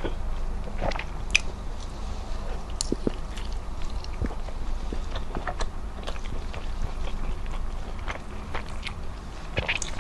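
Close-miked mukbang eating sounds: chewing of chicken and rice eaten by hand, with scattered short wet mouth clicks and smacks throughout.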